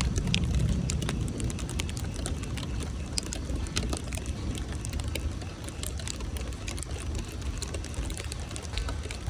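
Steady rain with many separate drops or small hailstones ticking sharply on nearby surfaces, over a low rumble of thunder that dies away in the first second or so.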